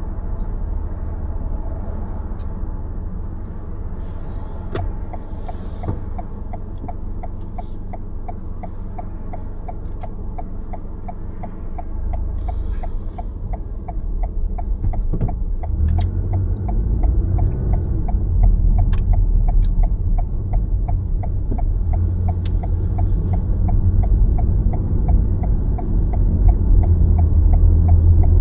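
Car driving, a steady low road-and-engine rumble that grows louder about halfway through. A fast, even ticking runs for about ten seconds in the middle.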